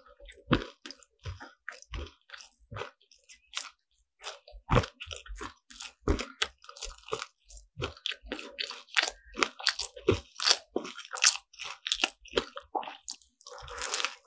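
Close-up eating sounds of crisp croffle being bitten and chewed: many sharp, irregular crunches and crackles of the flaky, caramelised pastry, several a second, mixed with softer squishy chewing.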